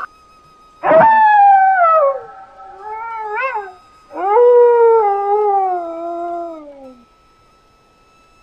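A canine howling, three times: a falling howl, a short rising-and-falling one, then a long howl that slowly drops in pitch and ends about seven seconds in.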